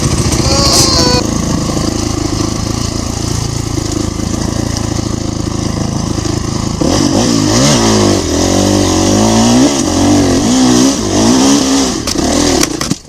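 Dirt bike engine running at a steady pitch, then from about seven seconds in revving up and down repeatedly and louder as the throttle is worked. The sound cuts off abruptly at the end.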